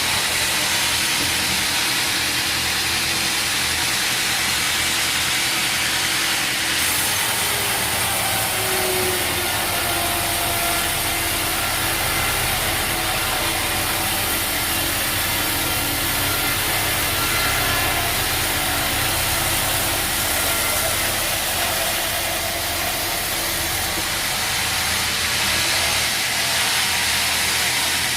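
Machinery running: a steady loud hiss over a low hum, its upper range changing about seven seconds in.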